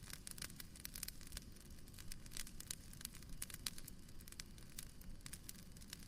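Fireplace crackling softly: irregular small snaps and pops over a low, steady rumble of burning.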